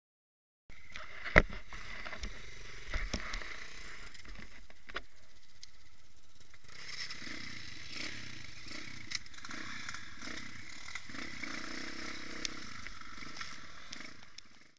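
Irbis TTR 250 motorcycle's single-cylinder engine running steadily, with one sharp knock about a second in and a few lighter clicks.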